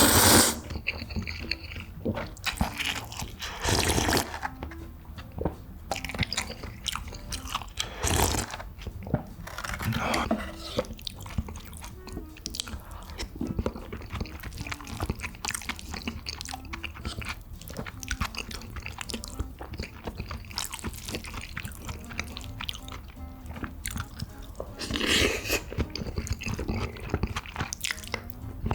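Close-miked eating sounds of omelet rice being chewed: wet mouth clicks and chewing, with a few louder bursts of eating noise about 4, 8, 10 and 25 seconds in, over soft background music.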